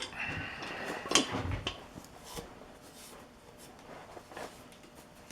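Handling noise from metal workshop parts: a short squeak, then a few light knocks and clicks.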